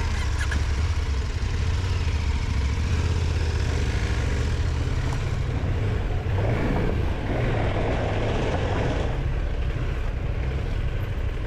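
KTM Adventure R motorcycle engine running steadily at low trail speed over a loose gravel and rock track, heard from the rider's helmet.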